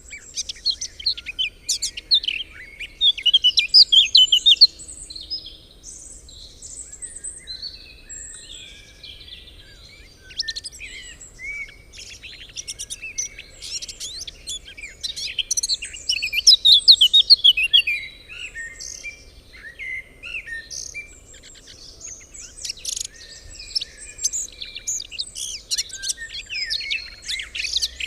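Several small songbirds chirping and trilling together in a dense, overlapping chorus, with louder bouts of rapid chirps now and then.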